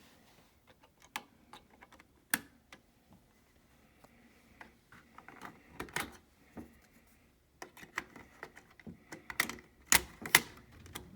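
Irregular sharp clicks and knocks, as of hands working tools and panels, with a pair of louder knocks near the end. A faint steady hum comes and goes in the middle.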